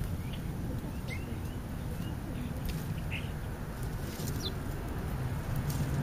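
Birds feeding at a food pile: a few short, high chirps and several sharp clicks over a steady low rumble.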